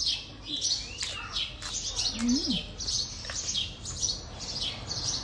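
Small birds chirping over and over, short high chirps about twice a second.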